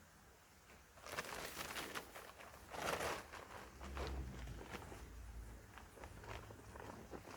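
Footsteps and rustling that start about a second in, irregular scuffs with one louder rustle near the middle.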